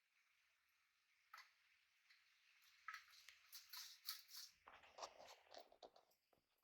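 Faint clicks and rustling scratches, irregular and busiest in the middle, typical of small pet parrots moving and pecking about; otherwise near silence.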